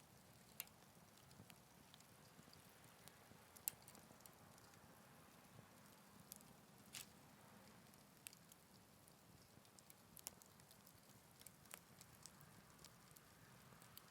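Wood fire burning in a Picogrill 398 fire pit: faint and steady, with scattered sharp crackles and pops, a few of them louder than the rest.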